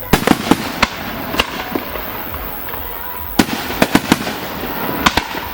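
Aerial fireworks bursting: sharp bangs in quick clusters, several in the first second, another cluster in the middle and a couple more near the end.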